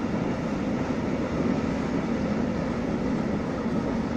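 Train rolling past on the line, a steady rumble of wheels on the rails.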